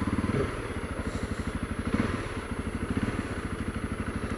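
Honda CRF250L's single-cylinder four-stroke engine idling with an even, rapid low pulse.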